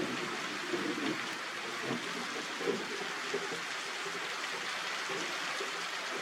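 Steady rainfall, an even hiss throughout. A few short, faint lower sounds stand out over it in the first three seconds.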